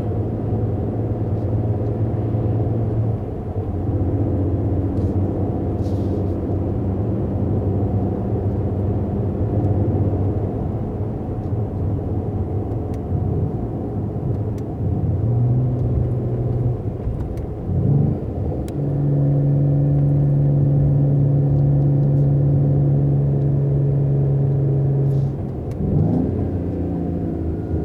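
Mercedes-AMG GT 43 4-Door Coupé's turbocharged inline-six engine and exhaust running steadily while driving, the pitch stepping up and down with speed, with brief rising revs about 18 and 26 seconds in and a stronger held drone between them.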